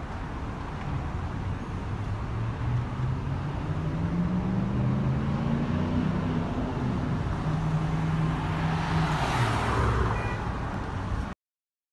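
Dodge Challenger's Hemi V8 engine accelerating. The engine note climbs over a couple of seconds, holds steady, then drops away with a rush of noise near the end.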